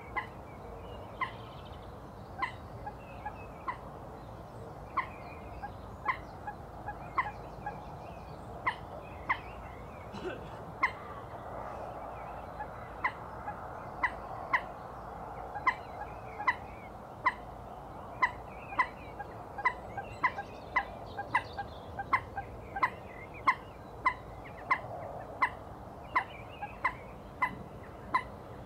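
A bird calling over and over in short, sharp single notes, irregularly one to two a second, over faint background birdsong.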